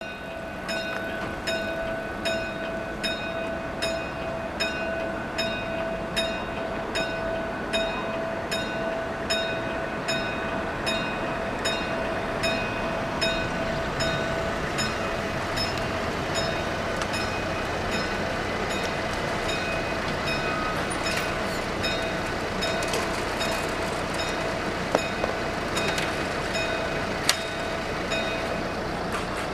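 A train passing over a level crossing: wheels clicking over the rail joints about twice a second, with a steady whine, for the first half, then continuing rumbling noise with two sharp clicks near the end.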